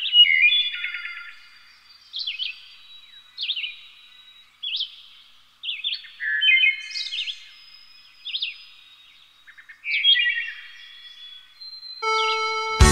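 Birdsong: short chirping phrases repeated about once a second. Music begins near the end.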